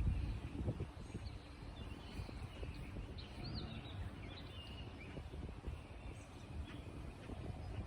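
Low, steady rumble of wind on the microphone, with faint, short chirps of small birds scattered throughout.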